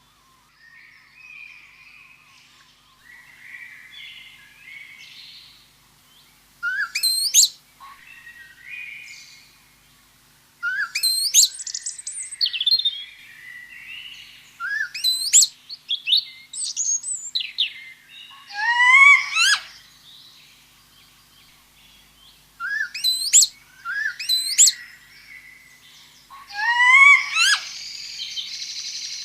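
Birds chirping and calling. Soft twittering runs through the first several seconds, and from about seven seconds in loud, sharp chirps come in groups.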